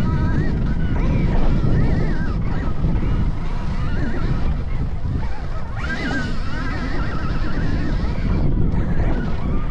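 Electric dirt bike's motor whining, its pitch rising and falling with the throttle, over a heavy rumble of wind on the microphone.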